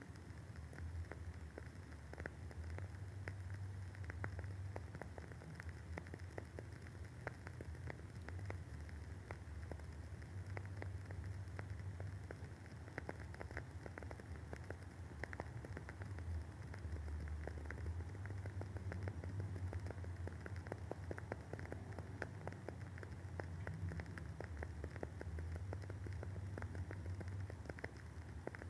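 Wooden wick of a WoodWick candle burning and crackling, a dense, irregular run of small pops and ticks, over a low steady hum.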